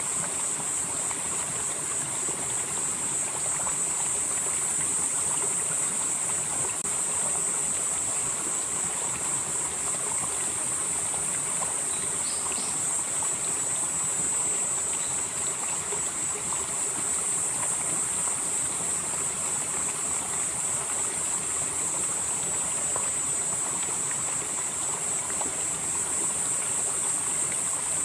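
A valley stream flowing steadily over rocks, with a steady high-pitched drone of insects above it.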